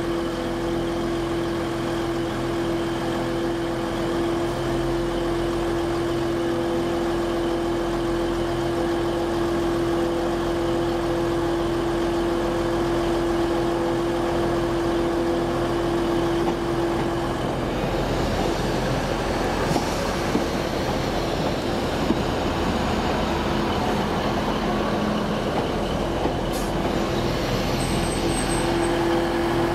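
Train standing at a station platform, giving a steady hum. About halfway through, a louder rushing noise with a few sharp clicks takes over for about ten seconds, and then the steady hum returns near the end.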